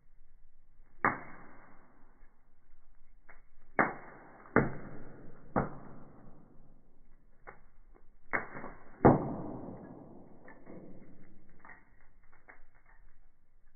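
Firewood burning in a fireplace, crackling and popping. It gives about half a dozen sharp pops, each fading away, the loudest about nine seconds in, with faint crackling between them.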